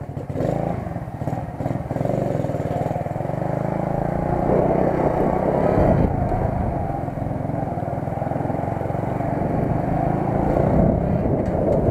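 Motorcycle engine running under way. It picks up revs and gets louder about four seconds in, and swells again near the end.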